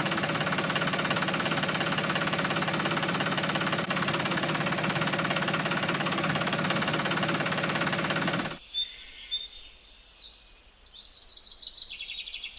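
A small engine-like motor, the DIY mini tractor's, running steadily. It cuts off suddenly about two thirds of the way through, leaving birds chirping.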